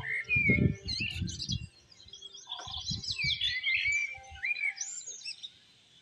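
Small birds chirping and warbling in quick overlapping phrases, with low rumbling bursts underneath in the first half.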